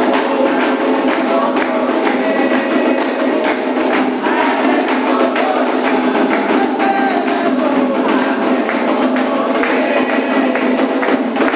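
Candomblé ceremonial music: voices singing a chant over continuous hand percussion, with steady strokes throughout.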